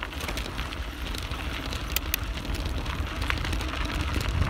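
Bicycle rolling fast downhill: wind rumbling over the microphone, with tyre noise and scattered clicks and rattles from the ride.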